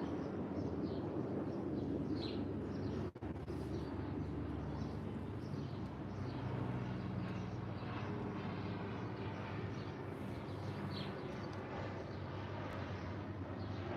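Garden birds giving a few short, high chirps several seconds apart over a steady low mechanical hum. The sound cuts out for a split second about three seconds in.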